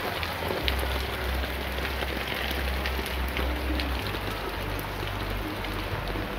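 Rain falling steadily, with scattered drops spattering close by and a low rumble of wind on the microphone.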